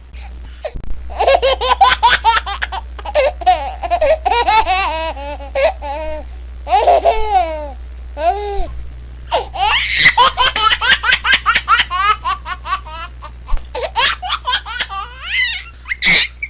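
A baby laughing hard in long runs of quick, high-pitched bursts, starting about a second in, with a couple of short breaks for breath.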